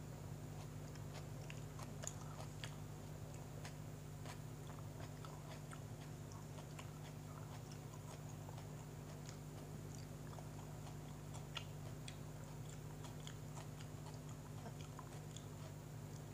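A person chewing a mouthful of sandwich, with small scattered mouth clicks and smacks, over a steady low hum.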